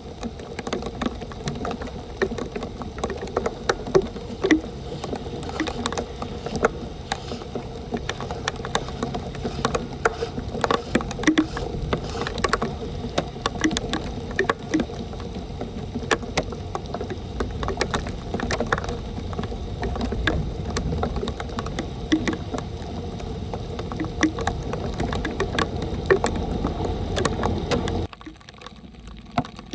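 Storm water rushing and splashing at a street drain in the rain, with many small knocks and scrapes scattered through it. The sound cuts off abruptly near the end.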